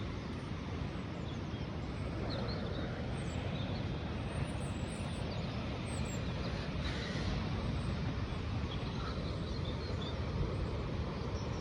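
Steady outdoor rumble and rush, heaviest in the low end, typical of wind across the microphone on an exposed cliff top, with a few faint high bird chirps now and then.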